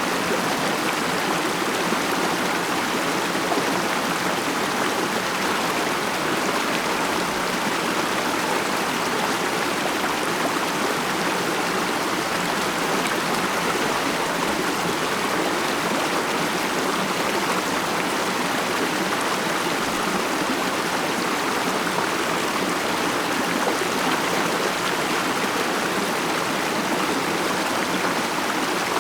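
Mountain stream flowing over rocks: a steady, even rush and murmur of running water.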